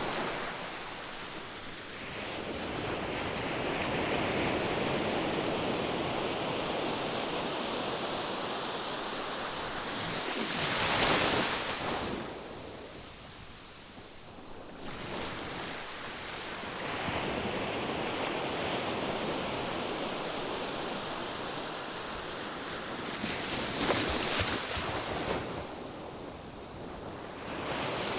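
Ocean surf washing onto a sandy beach in a steady rush that swells and ebbs. Two louder waves break about eleven seconds in and again near twenty-four seconds, each followed by a brief lull.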